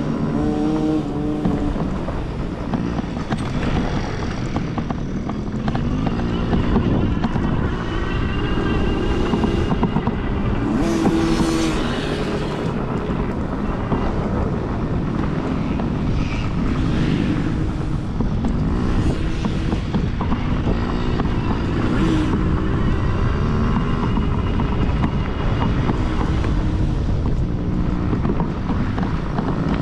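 Several kids' dirt bike engines running on a motocross track, their pitch rising and falling as they rev up and ease off, with wind on the microphone.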